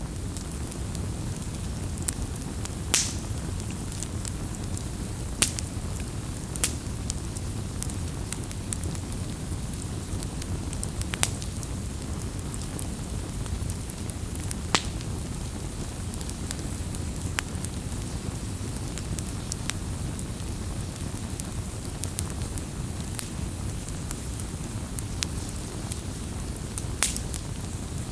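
Wood campfire burning: a steady low rush of flames with irregular sharp crackles and pops from the burning wood, a few of them louder.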